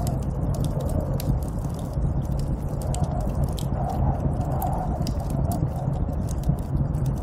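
Steady, low snowstorm wind noise with frequent small, sharp crackles scattered through it.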